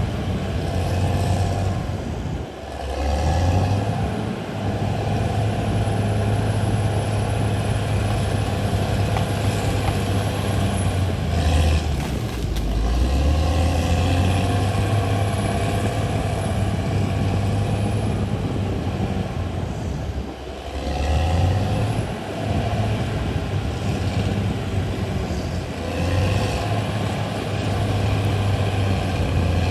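A CAT D6R XL bulldozer's diesel engine running steadily under work, its low note dipping briefly three times: a few seconds in, around twelve seconds, and about twenty-one seconds in. A faint high whine wavers above it.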